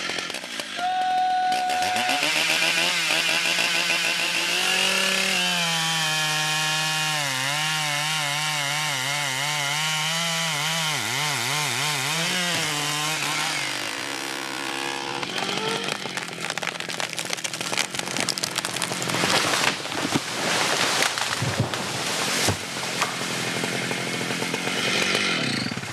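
Large chainsaw with a one-metre bar cutting into the trunk of an okoumé tree, its engine pitch wavering under load for about twelve seconds before dropping away. The second half is an irregular run of sharp cracks and crashes as the tree comes down.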